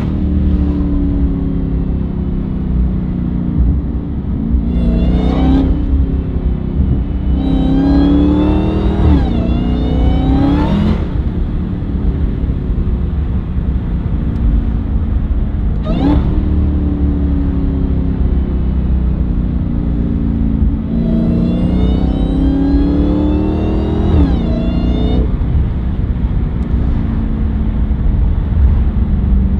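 Dodge Hellcat's supercharged V8 engine driving, with a steady low rumble. It revs up in three pulls, its pitch climbing and then dropping back each time.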